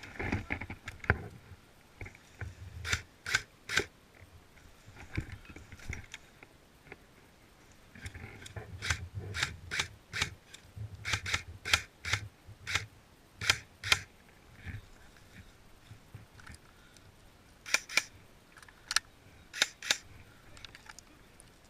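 Airsoft M4 electric replica rifle firing single shots, a series of sharp snapping clicks in irregular groups, with rustling of gear and movement between them.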